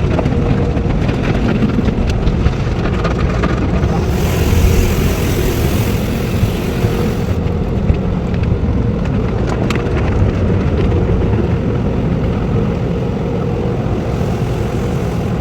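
Automatic tunnel car wash machinery running with a steady low rumble, with a hiss of water spray from about four seconds in, lasting about three seconds.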